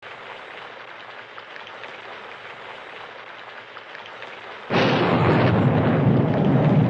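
Thunderstorm: steady rain falling, then a loud clap of thunder breaks about two-thirds of the way through and keeps rumbling.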